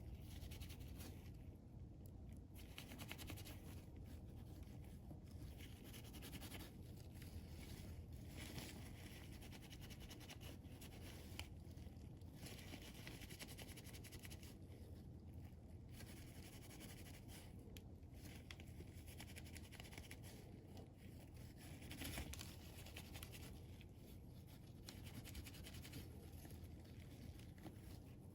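Faint hand scrubbing and scraping on oil filter parts during cleaning, in short strokes that come and go every second or two, over a steady low hum.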